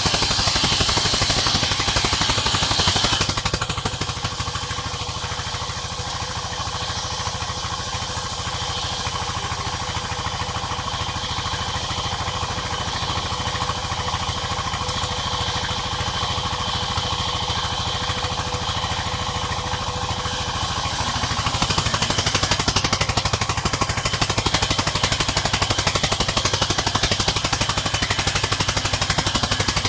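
Sawmill saw and its drive running steadily with a fast, even mechanical rattle. It is louder for the first few seconds, drops back, then grows louder again about two-thirds of the way through.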